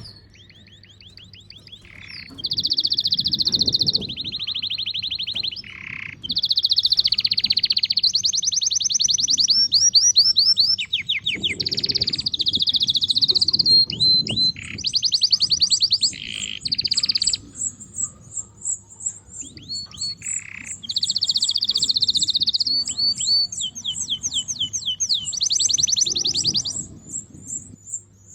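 Domestic canaries singing: long phrases of very fast trills and rolls one after another, broken by short whistled notes, with a second run of quick high chirps carrying on underneath for most of the time. A faint steady low hum sits beneath.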